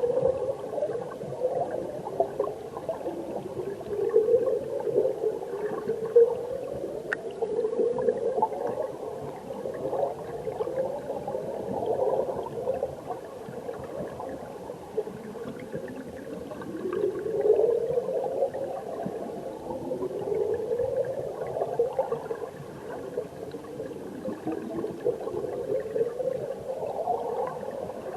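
Mountain stream heard from under the water: a continuous muffled rush of flowing water with repeated rising gurgles every second or two.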